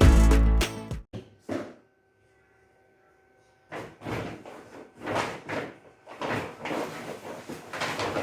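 Background music ends about a second in. After a short lull come a series of knocks and sliding scrapes from furniture doors and drawers being handled.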